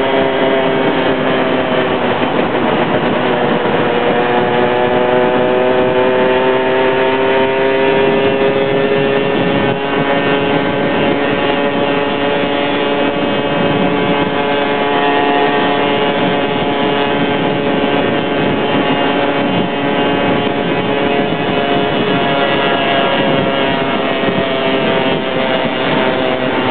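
Yamaha SS110 motorcycle's small single-cylinder engine running hard at highway speed, heard from inside the rider's full-face helmet over heavy wind rush. The engine note dips briefly a couple of seconds in, climbs over the next few seconds, then holds steady.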